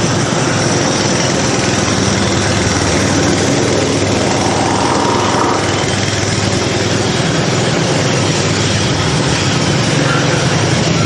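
Concrete mixer running steadily, a continuous machine drone.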